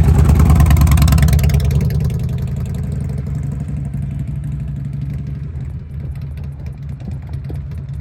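Harley-Davidson V-twin motorcycle engine running, louder for about the first second and a half and then settling to a lower, steady note.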